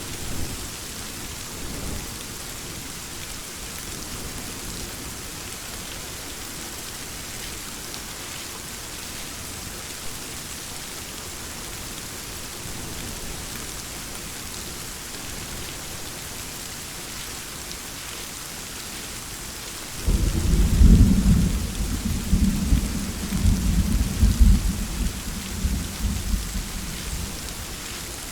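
Steady rainfall with a long roll of thunder that breaks in suddenly about two-thirds of the way through, rumbling deep and uneven for several seconds before dying away.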